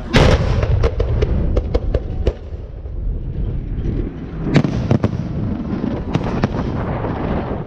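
Fireworks display: aerial shells bursting with a loud bang right at the start and another about four and a half seconds in, each followed by a string of sharp cracks over a low rumble.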